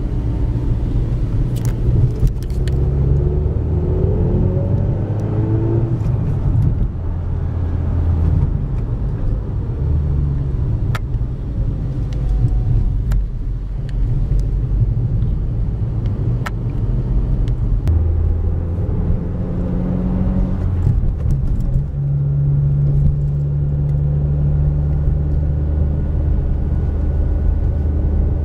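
Peugeot RCZ R's turbocharged 1.6-litre four-cylinder engine heard from inside the cabin, running at low revs through town, its note changing pitch several times with throttle and gear changes.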